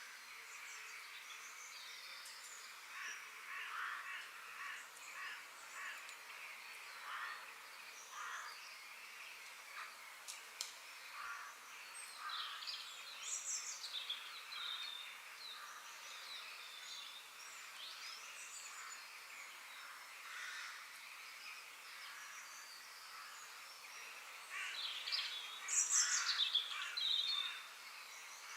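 Forest ambience of several birds chirping and calling in short bursts over a faint steady hiss, busiest and loudest near the end.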